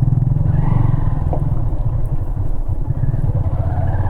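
Motorcycle engine running steadily under way, with a fast even pulse from its firing strokes.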